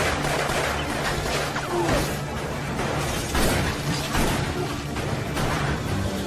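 Dramatic film-score music with repeated crashing, glass-shattering impacts over it.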